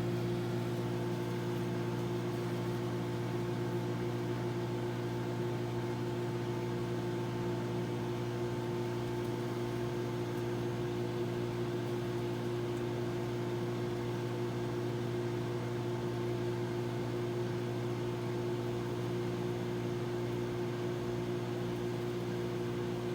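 Microwave oven running mid-cycle: a steady hum made of several fixed tones over a soft, even hiss.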